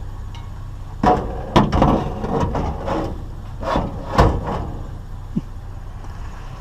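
Items in a curbside junk pile being handled, with a run of hard knocks and clatters. The loudest fall about a second in and again around four seconds, and a small click comes near the end.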